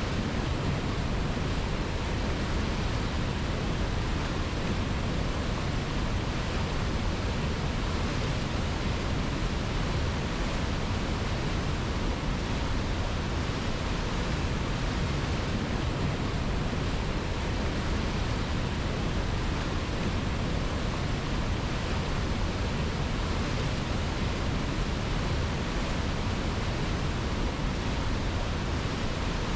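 Steady rushing of a river, an even, unchanging hiss of flowing water with no breaks or separate splashes.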